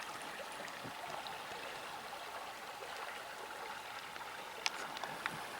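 River water running in a steady wash, with a few light clicks near the end.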